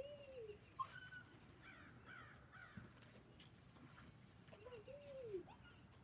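Faint outdoor bird calls: two arched calls, one at the start and one about five seconds in, with a few higher, quicker chirps from a smaller bird between them.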